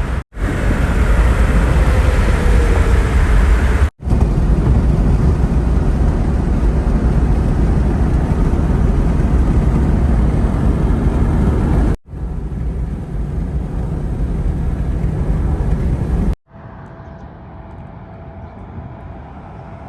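Loud, steady low rumbling noise of wind and outdoor roar, with no clear tones, in several clips joined by abrupt cuts about 4, 12 and 16 seconds in; the last clip is much quieter.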